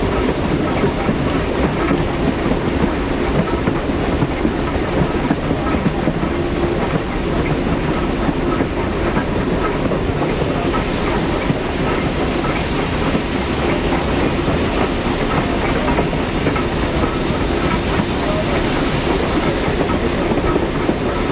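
Steady running noise of a steam-hauled excursion train in motion, heard from an open observation car: wheels rolling on the rails, with no pauses.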